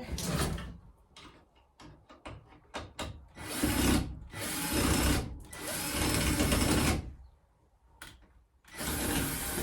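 Power drill running in four short bursts, with a few light clicks and knocks before the first, as screws are driven out of an old wooden chicken roost to take it down.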